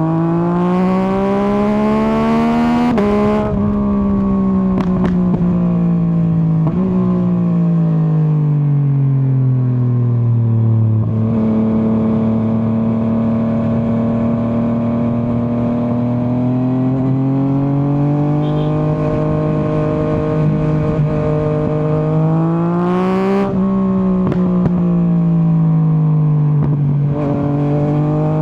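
2024 Yamaha MT-09's inline three-cylinder engine under way: it revs up and shifts up with a sudden drop in pitch about three seconds in, then winds down with the revs falling and a few sharp pops, holds a steady cruise, and revs up, shifts and winds down again near the end. A rush of wind noise comes with the hardest acceleration.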